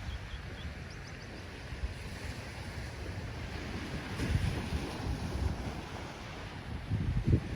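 Ocean surf: waves breaking and washing in, with wind rumbling on the microphone. The surf swells louder about four seconds in and again near the end.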